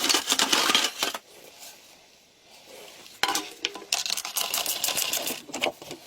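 Metal parts and tools clinking and rattling, with a dense run of sharp clicks, a quieter pause of about two seconds, then more clattering.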